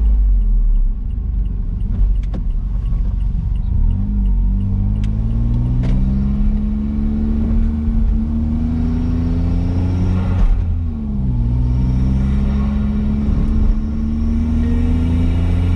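Honda S660's turbocharged 658 cc three-cylinder engine accelerating through the gears. The engine note rises steadily, dips at an upshift about ten and a half seconds in, then rises again.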